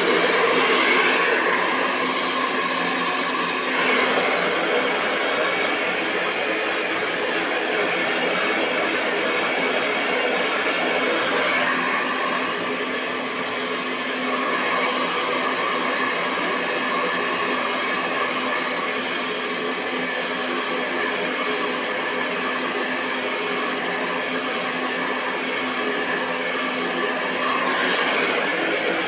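Hair dryer running continuously: a steady rush of blown air with a low, even motor hum, its tone shifting slightly a few times.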